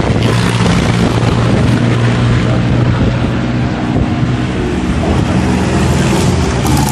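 Vintage car engine running loudly at fairly steady revs.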